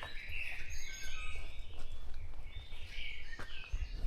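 Dawn chorus of several songbirds singing and calling at once: many overlapping chirps and short phrases. A low rumble runs underneath and grows louder near the end.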